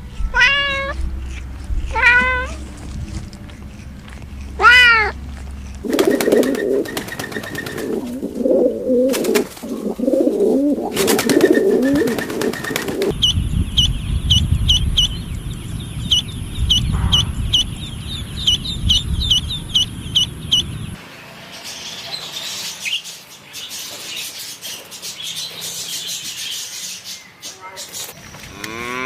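A cat meowing three times, followed by a series of other animal recordings, including a long run of short, high chirps repeated a few times a second.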